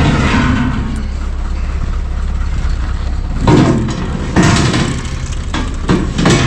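Heavy engine idling with a steady low rumble, from the tractor or the truck that carried it. A few short louder sounds stand out over it about halfway through and near the end.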